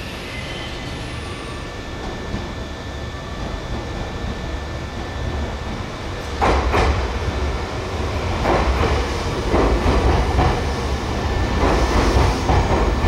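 Electric train approaching, its low rumble growing louder, then the wheels clattering over rail joints in a quickening clickety-clack from about halfway in.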